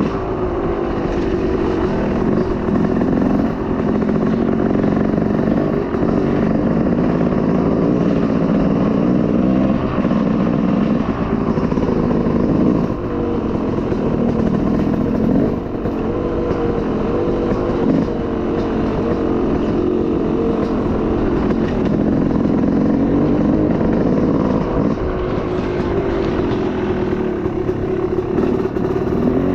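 Dirt bike engine running under a rider on a trail, its pitch rising and falling steadily as the throttle is opened and closed.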